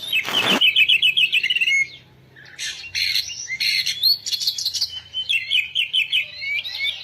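Small birds chirping in rapid trills, played through a phone speaker from a bird video for cats. A short noisy burst comes at the very start, and the chirping breaks off briefly about two seconds in before resuming.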